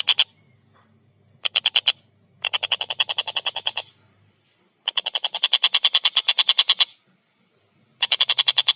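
Collared kingfisher (tengkek buto) giving its loud chattering call: rapid runs of evenly repeated harsh notes, about ten a second, in four bouts with short pauses between them, the last starting near the end.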